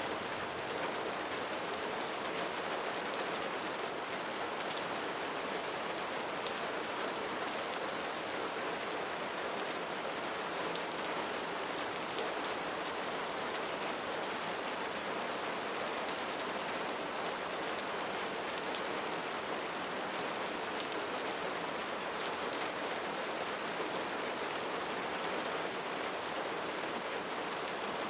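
Steady rain falling, a dense even patter of raindrops.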